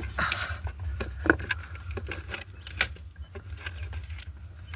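Scattered clicks and knocks of hands handling an open egg incubator, over a steady low hum.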